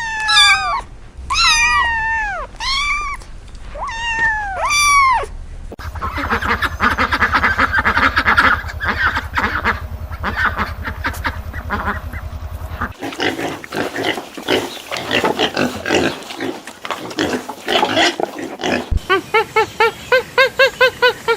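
A series of different animal calls, one recording after another: five separate calls that each rise and fall in pitch, then a long stretch of rapid pulsing calls, and near the end a quick run of short repeated calls.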